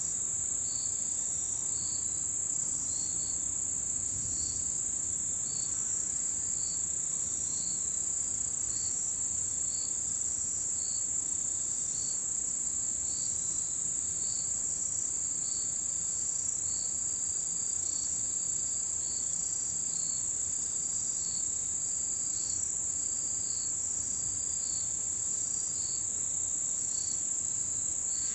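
Autumn insects calling: a continuous high, steady trill with shorter chirps repeating about once a second just below it, some drawn out longer.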